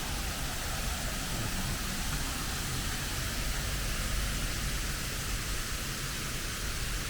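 Waterfall rushing steadily, an even hiss of falling water with a low rumble underneath.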